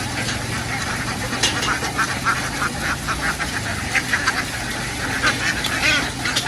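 A flock of domestic ducks quacking: many short calls overlapping one another, over a steady low hum.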